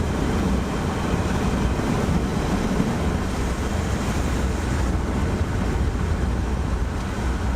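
Steady road and wind noise inside a moving car, a constant low rumble with an even hiss over it.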